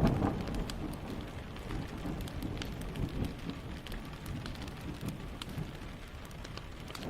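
Steady rain falling, with scattered sharp drop ticks. A distant thunder rumble dies away about a second in.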